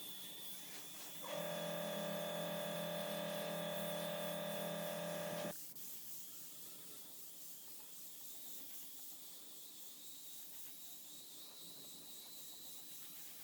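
A small electric motor hums steadily at a fixed pitch, starting about a second in and cutting off suddenly some four seconds later, over a faint constant high whine.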